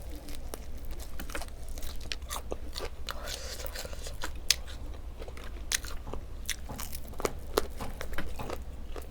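Close-miked mukbang eating: a person chewing and biting food, with many irregular sharp crunches over a steady low hum.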